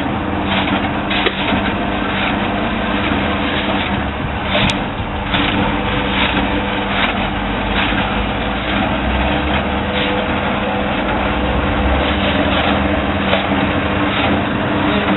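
Small single-cylinder petrol engine running steadily at a constant speed, with light clicks or knocks about one to two a second over it.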